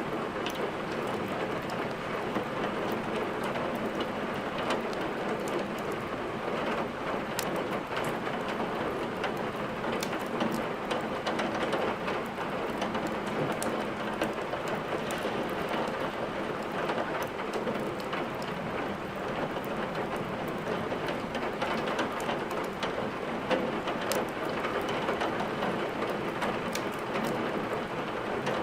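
Steady rain mixed with a crackling wood fire, the fire's scattered sharp pops sounding over the even hiss of the rain.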